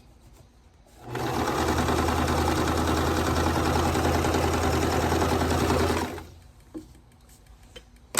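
Electric sewing machine stitching a seam at steady speed for about five seconds, starting about a second in and stopping just after six seconds. A sharp click comes right at the end.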